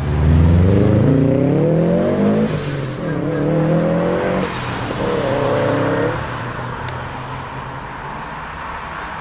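A car accelerating hard away, its engine revs climbing, with an upshift about two and a half seconds in and another at about four and a half seconds, then the engine sound fades as the car drives off.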